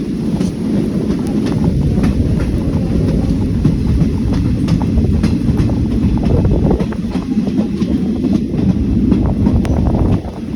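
Train running along the track: a steady, loud rumble of wheels on rails, with scattered sharp clicks as the wheels pass over rail joints.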